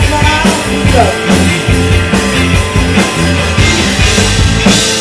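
Live rock band playing a mostly instrumental passage, with a drum kit keeping a steady beat under bending guitar lines.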